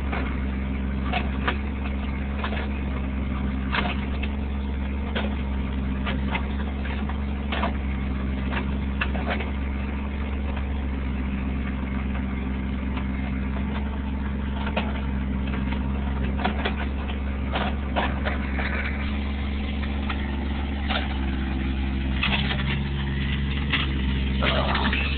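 Excavator engine running steadily, with scattered short knocks and clanks as the machine digs at the tree's roots.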